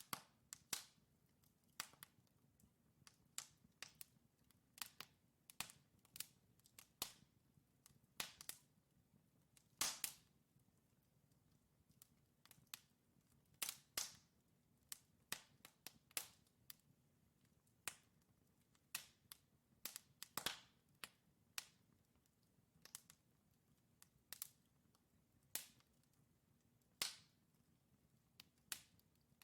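Wood fire crackling as burning logs pop and snap, in irregular sharp cracks one or two a second with a few louder pops, over a faint low hiss.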